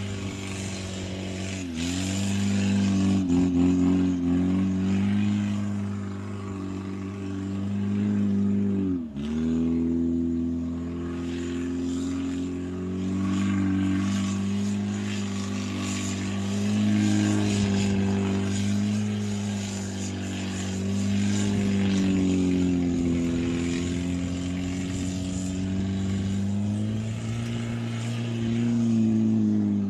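Toyota 4K 1.3-litre four-cylinder engine of a converted Corolla beach buggy, revved hard and held high while the buggy slides and spins on sand. The pitch swings up and down, with sharp drops in revs near the start and again about nine seconds in.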